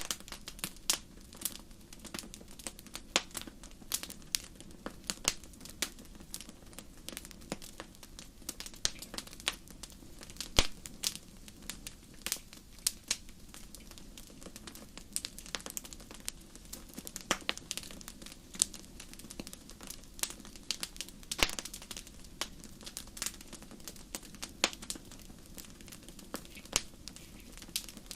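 Wood fire burning in a fireplace: steady low hiss with frequent irregular crackles and pops, one sharper pop about ten seconds in.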